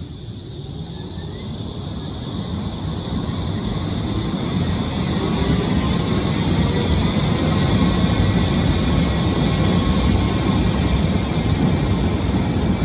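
Berlin U-Bahn large-profile train running on the track, its rumble growing steadily louder over the first several seconds and then holding, with a faint whine that rises slightly in pitch.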